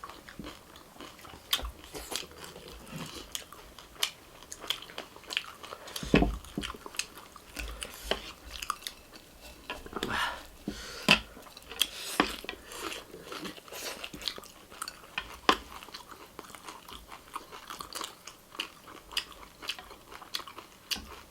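Close-up eating sounds: chewing and biting food, with irregular crisp crunches and mouth clicks.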